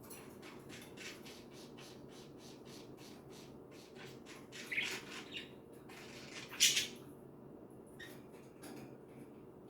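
Pet budgerigars chattering in quick short chirps, with two louder squawks, the loudest about two-thirds of the way through.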